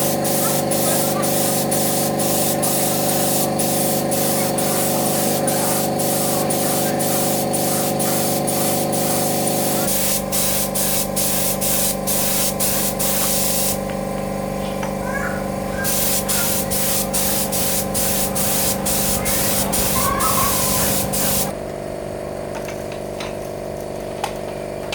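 Compressed-air spray gun hissing in short, repeated bursts over the steady hum of a running air compressor. The spraying stops after about twenty seconds, and the compressor hum carries on more quietly.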